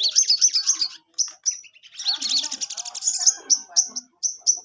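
Sogon (spiderhunter) songbird singing in rapid high-pitched trilled bursts, twice, then a string of sharp separate chirps about four a second toward the end.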